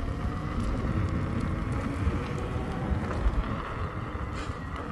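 An electric unicycle being ridden on a dirt trail: wind rumble on the microphone and rolling tyre noise, with a faint motor whine that rises and falls.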